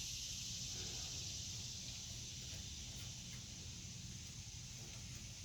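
Steady high-pitched hiss over a low hum, with a few faint light clicks of small parts being handled while a nut is worked onto a fitting.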